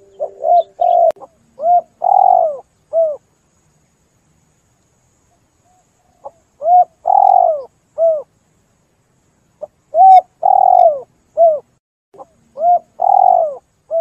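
Spotted dove (tekukur) cooing: four repeated phrases, each of a few short coos, a longer rolling coo and a short closing note, with pauses of one to three seconds between phrases.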